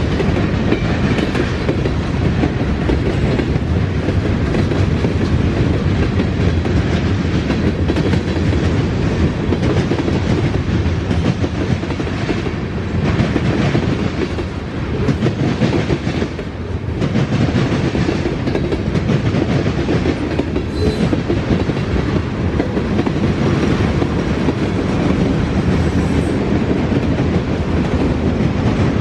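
Norfolk Southern freight train's cars rolling steadily past, wheels clicking over the rail joints, with a short lull around the middle.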